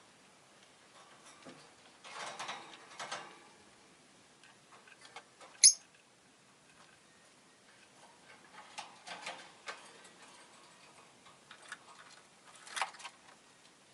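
Peach-faced lovebird moving about with scattered small clicks and rustles, and one short, sharp, high-pitched chirp about six seconds in.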